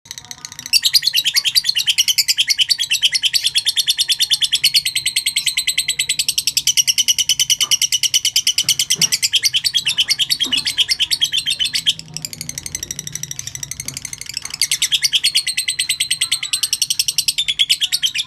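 Lovebird singing its long 'ngekek' chatter: a very rapid, high-pitched run of notes kept up without a break for many seconds, going softer for a couple of seconds about twelve seconds in, then loud again.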